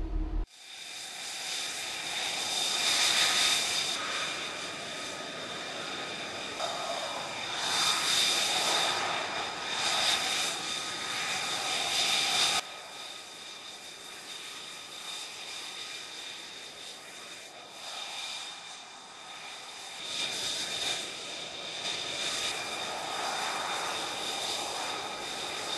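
F-35B jet engine running: a high turbine whine of several steady tones over rushing noise, swelling louder several times. About twelve seconds in it drops suddenly to a quieter stretch, then grows louder again near the end.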